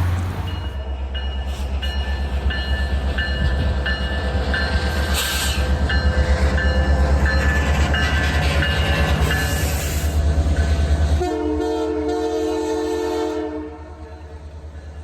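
A train running past with a heavy, pulsing low rumble and short high tones repeating about twice a second. About eleven seconds in, the sound switches to a train horn sounding a steady chord for about two seconds.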